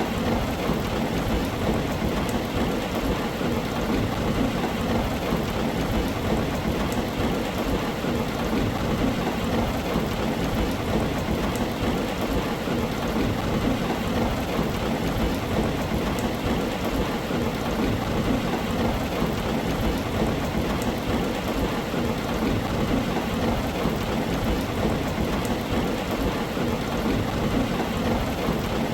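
Heavy rain drumming steadily on a tin roof, a dense even downpour with a low rumble underneath and now and then a single drop ticking.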